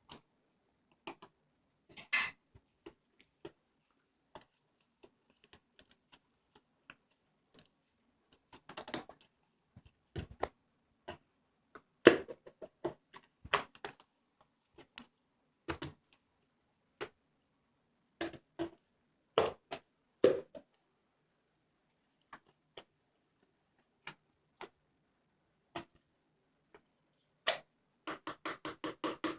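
Scattered short clicks and knocks from objects being handled, with a quick run of ticks, about six a second, near the end.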